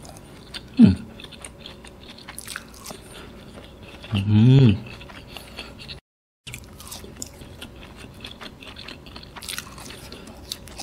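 Close-up chewing of a soft fried chicken ball with cheese inside, small wet mouth clicks throughout. A short hum comes about a second in and a louder, longer one about four seconds in, and the sound drops out for a split second about six seconds in.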